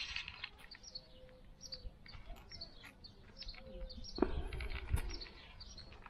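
Small birds chirping, short high chirps repeating throughout, with a dull knock a little past four seconds and another around five seconds.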